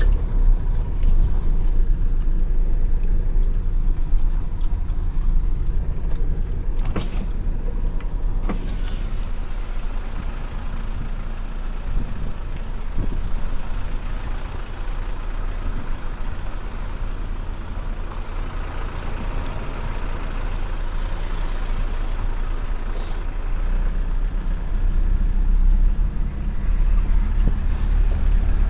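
Motor vehicle running, a steady low rumble, with two sharp clicks about a third of the way in.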